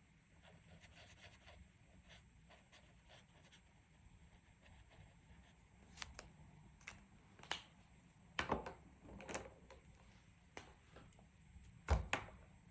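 Faint scratching of a coloring pen or pencil on paper, then a series of sharp clicks and small knocks, loudest about two-thirds of the way in and near the end, as coloring tools are handled and set down on a tabletop.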